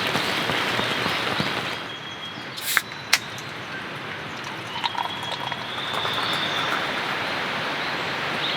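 Steady rain that thins out about two seconds in to a softer patter, with two sharp taps and a thin high whistle, then grows heavier again.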